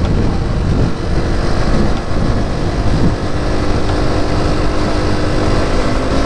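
2020 Honda CRF250F's air-cooled single-cylinder four-stroke engine pulling the bike along at road speed. Its pitch shifts up and down in the first few seconds and then holds steady, over a rush of wind noise.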